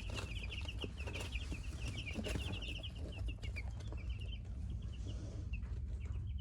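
A brood of baby broiler (meat-breed) chicks peeping: a dense chorus of short, high cheeps that thins a little near the end, over a steady low hum.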